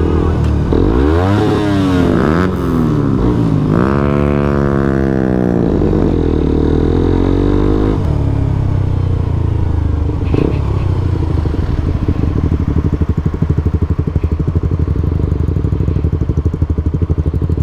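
Suzuki GSX-R125's single-cylinder four-stroke engine accelerating through the gears, its pitch rising and dropping back at each shift. After about eight seconds it settles to a lower note and idles with an even pulse.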